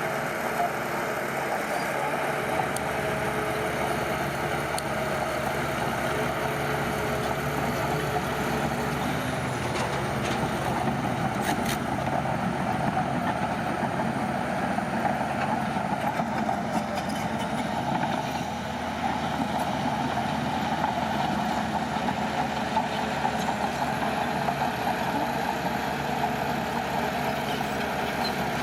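Heavy construction machinery engine running steadily, with a few light clicks about a third of the way in.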